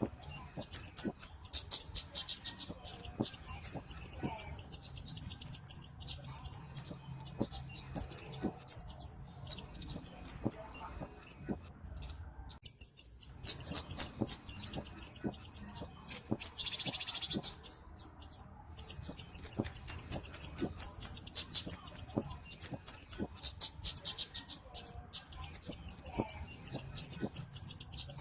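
Flowerpecker (cabe-cabean) calling: fast runs of high, thin chips lasting several seconds at a time, with two short pauses partway through.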